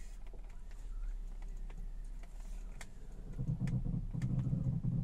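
BMW E46 front wheel and steering making scattered sharp clicks while the wheel is turned, over the steady hum of the running car. About three seconds in, a louder low groaning rumble joins: the turning noise that is the car's fault.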